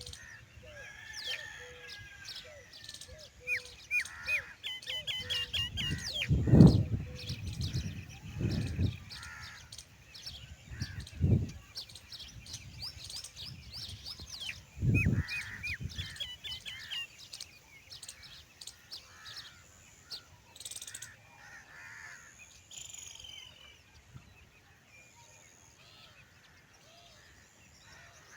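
Morning chorus of small birds chirping and trilling, with crows cawing loudly a few times, mostly in the first half. The birds thin out toward the end.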